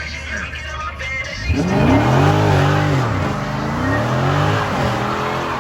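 A car engine revved hard over and over from about a second and a half in, its pitch climbing and dropping several times. Music plays under it at the start.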